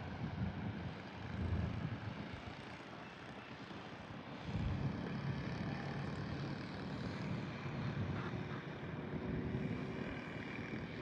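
Wind rushing over the camera microphone on a moving vehicle, with a low rumbling engine or road noise underneath that gets louder about four and a half seconds in.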